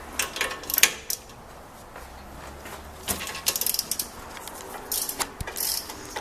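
Hand socket ratchet clicking in short quick runs while a suspension bolt is worked, with scattered clinks of metal tools.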